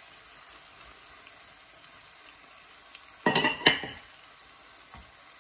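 Raw king prawns sizzling gently in a pan of onion-and-spice masala as a silicone spatula stirs them in. Two sharp knocks close together a little past three seconds in are the loudest sound.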